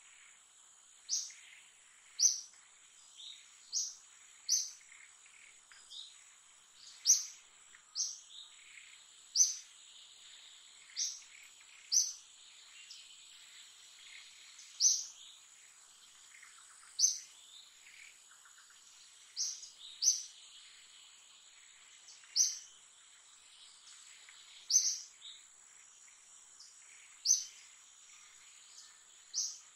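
A bird repeating a single short, high chirp about every one to two seconds, with a faint steady high-pitched tone underneath.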